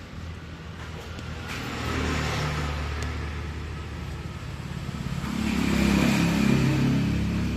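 A car engine running, its revs and loudness rising about two seconds in and again more strongly from about five seconds in.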